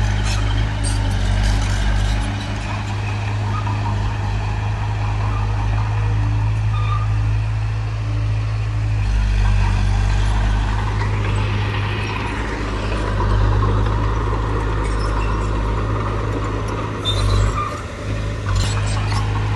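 Diesel engine of heavy earthmoving machinery running under load, a steady low drone that swells and eases. A few short knocks come near the start and again near the end.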